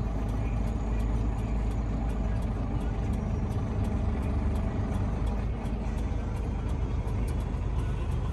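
Semi-truck's diesel engine running steadily under load as it tows a stuck car out of the roadside snow. A faint, regular ticking runs along with it, about two to three ticks a second.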